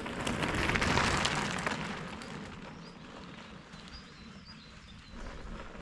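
A bicycle rolling past on the trail: tyre noise swells about a second in, then fades away. Faint bird chirps come near the end.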